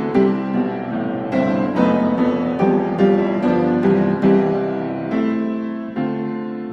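Background piano music: a gentle melody of struck notes.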